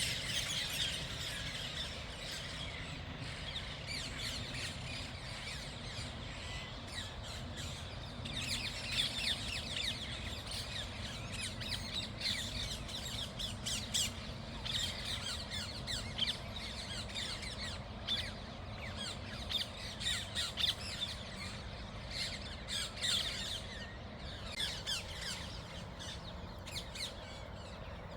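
A flock of rose-ringed (Indian ringneck) parakeets calling from the trees: many short, shrill squawks overlapping and repeating, over a steady low rumble.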